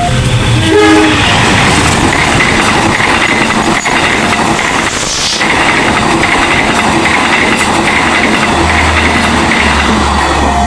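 Passenger train passing a level crossing at speed: a short horn blast about a second in, then the rolling noise and wheel clatter of the carriages going by. The crossing's steady electronic warning tone sounds beneath it.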